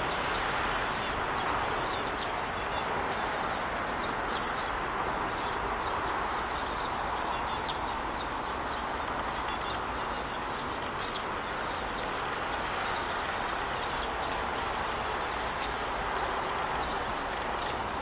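High, rapid chirping calls of small birds, repeated in short bursts about every second, over a steady rush of wind through leaves.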